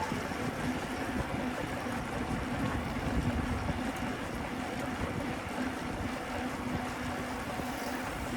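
Wind rushing over the microphone of a camera riding on a moving bicycle, a steady rush with street and traffic noise under it. A faint low hum comes and goes.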